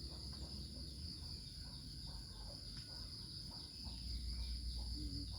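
Steady high-pitched drone of forest insects, crickets or similar, holding one shrill tone without a break, over a low rumble.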